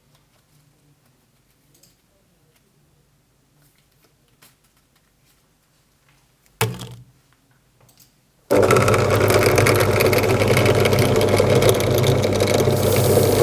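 Electric drill motor switching on abruptly and running at a steady high speed, after a short sharp knock a couple of seconds earlier.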